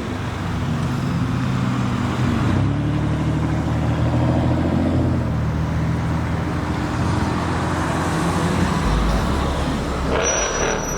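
A motor vehicle's engine running close by, its pitch climbing a little a few seconds in and then settling, with a deeper rumble near the end.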